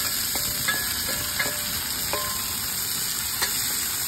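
Chopped onions sizzling steadily in oil in a small kadhai, with a wooden spatula scraping and tapping the pan a few times as it stirs.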